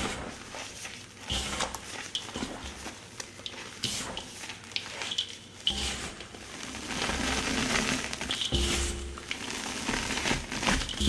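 Slabs of gym chalk crushed and crumbled by hand: repeated crunching and crackling, with a few short squeaks.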